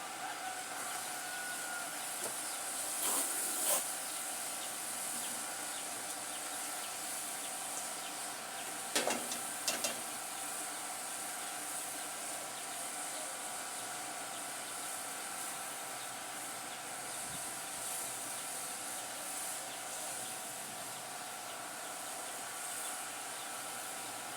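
Pot of water boiling steadily with a constant hiss, with a few short knocks about three seconds in and again around nine to ten seconds.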